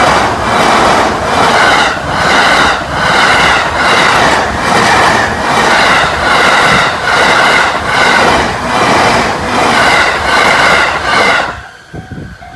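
Joban Line train passing a level crossing at high speed: a loud rush of wheels and air with a regular beat a little over once a second, dropping away sharply near the end as the last car clears. A level crossing warning bell then rings faintly.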